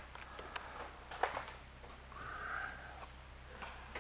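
Quiet room tone with a steady low electrical hum and a few faint clicks, with a short soft hiss a little after two seconds in.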